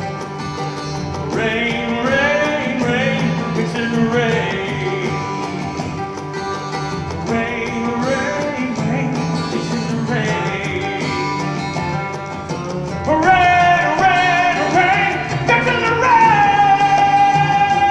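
Country-style song from a stage musical: singing over guitar accompaniment. It gets louder about two-thirds of the way through and ends on a long held note.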